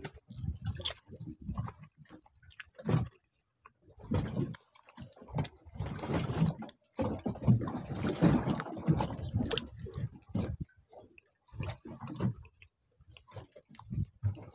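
Water sloshing and splashing in irregular bursts, mixed with a few sharp knocks, with short quiet gaps between them.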